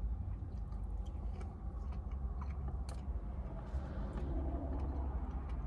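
A person chewing crunchy food close to the microphone, with scattered crisp crunches over a steady low hum.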